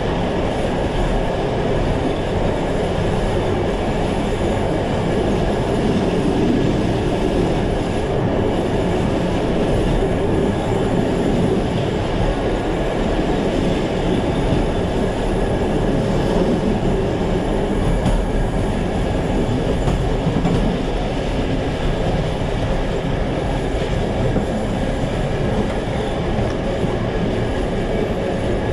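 Passenger train coach running steadily along the track, heard from the rear of the train: a continuous rumble of wheels on rail with a faint steady high whine above it.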